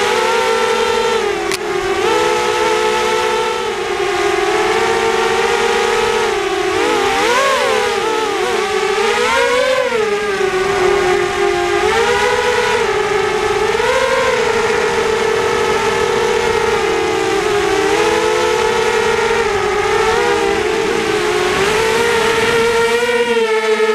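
SunnySky 2204 2300Kv brushless motors with HQProp 5040 propellers on a 250-size FPV quadcopter whining in flight, several close pitches weaving up and down with the throttle. The biggest swings in pitch come about 7 to 10 seconds in.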